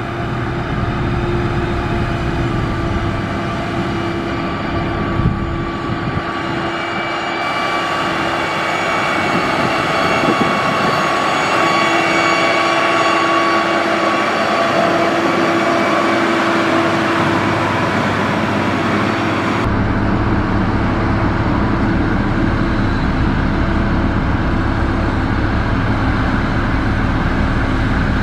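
A motor grader's diesel engine running steadily, with a constant engine hum. The sound changes abruptly about seven seconds in and again about twenty seconds in, as if between separate recordings of the machine.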